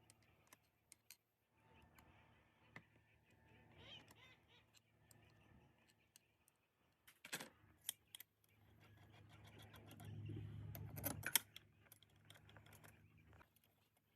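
Faint, scattered clicks and clinks of small hard objects being handled, with two louder knocks about seven and eleven seconds in and a low hum that swells briefly just before the second knock.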